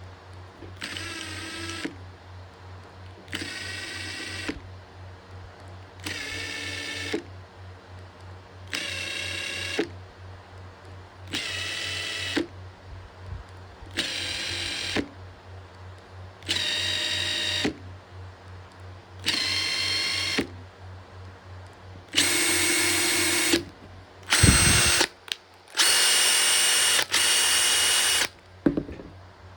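Makita TP141D cordless 4-mode impact driver run in short bursts of about a second each, a couple of seconds apart, its motor whine climbing higher in pitch from one burst to the next. Near the end come several louder, longer runs.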